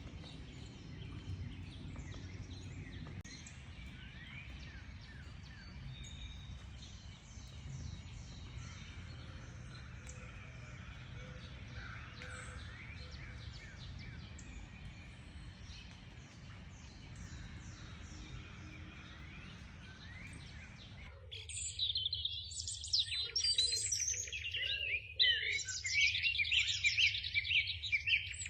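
Songbirds singing and calling faintly over a low, steady background noise; about three-quarters of the way through, the sound cuts abruptly to a louder, closer chorus of rapid, high twittering chirps.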